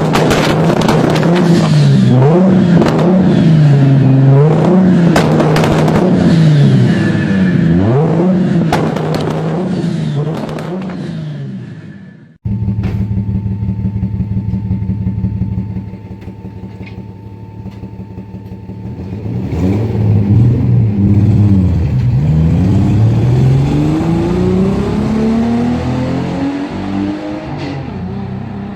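Toyota Supra engine revved again and again, with many sharp pops and bangs from the exhaust. After an abrupt cut there is a steady engine note, then a long acceleration in which the engine pitch climbs steadily.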